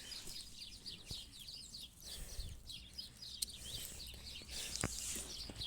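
Small birds chirping over and over in short falling notes, with a few sharp metallic clicks of keys being worked in a lock.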